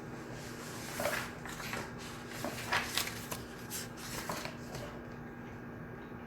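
Shared study room ambience: a steady low hum, with a spell of rustling and small clicks from someone handling paper or desk items, starting about a second in and stopping near five seconds.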